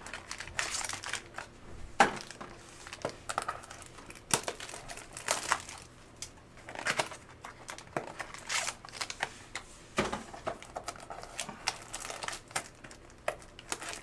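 Trading card packs and wrappers being handled and opened, a run of irregular rustles and light clicks.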